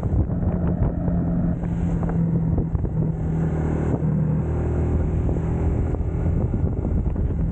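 UM Scrambler X motorcycle engine running under way, a steady tone with a deeper note coming in about three seconds in, and wind buffeting the microphone.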